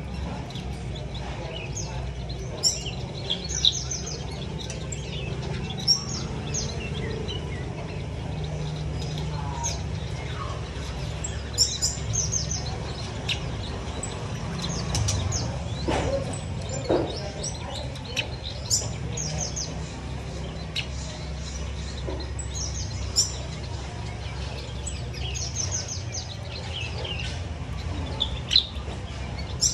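Small aviary birds chirping: short, high chirps and twitters every second or so, over a steady low background hum.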